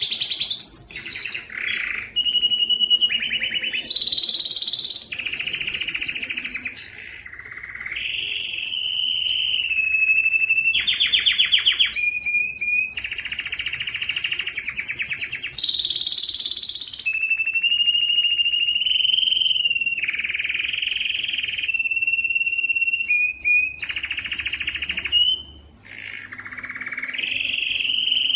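Domestic canary singing a long unbroken song, moving every second or two between rapid rolled trills, held whistled notes and short gliding phrases.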